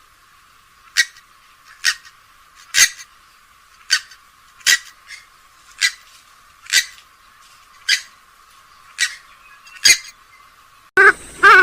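Recorded calls of a rail-family waterbird: short, sharp single notes repeated about once a second, about a dozen in all, with the low end filtered out so they sound thin. Just before the end a different recording cuts in with a fuller, warbling run of calls.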